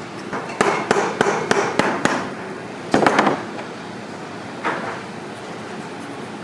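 Cobbler's hammer striking a boot during resoling: about six quick blows at roughly three a second, a short flurry about three seconds in, and one last knock near the five-second mark, over a steady background hum.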